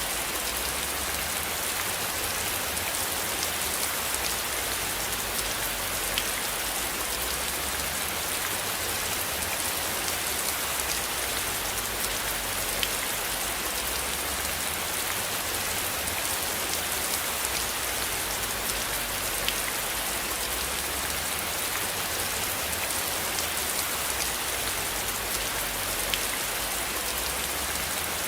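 Steady rain hiss, blended with white noise, with a few slightly louder single drop ticks spaced several seconds apart.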